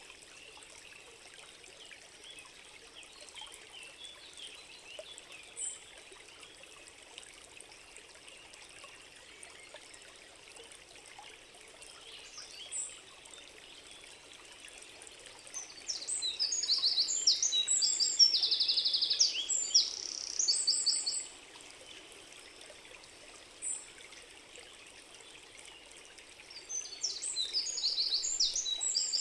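Forest stream running steadily, with a songbird singing over it. Two loud songs of rapid trilled notes, one lasting about five seconds from a little past the middle and another starting near the end, plus a few short high chirps in between.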